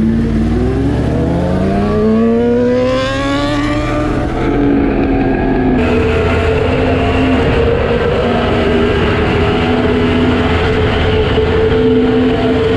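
Yamaha MT-10's crossplane inline-four engine accelerating: its note dips briefly, then climbs steadily for about four seconds, then settles into a steady drone at cruising speed.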